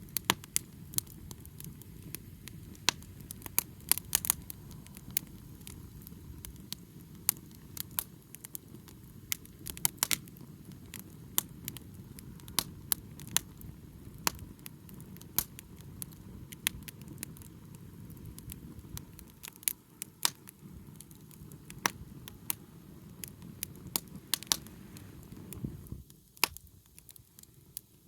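Wood bonfire crackling, with frequent sharp pops over a steady low rushing sound; the low rushing drops away near the end while a few pops carry on.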